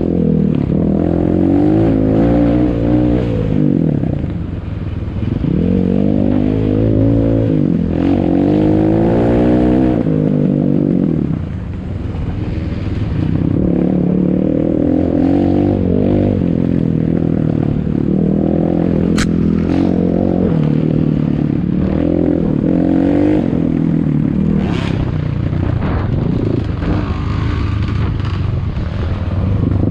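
Ataki DR 250 enduro motorcycle engine being ridden, its pitch rising and falling with the throttle, the revs climbing and dropping several times.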